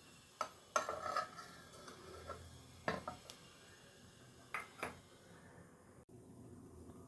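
Metal kitchen utensils clinking and knocking against cookware: a few sharp knocks, a quick cluster of them about a second in, and a pair of knocks a little before the five-second mark.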